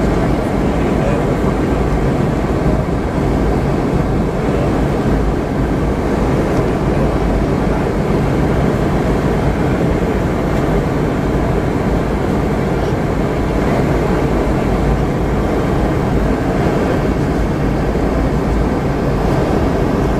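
Boeing 717-200 cabin noise in flight: the steady rush of airflow and the hum of its rear-mounted Rolls-Royce BR715 engines, heard from inside the passenger cabin, with no change in level.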